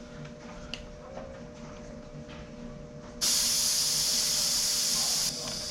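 Compressed air hissing out of a scooter tire's valve as the tire is let down. The hiss starts suddenly about three seconds in and is loud for about two seconds, then carries on weaker.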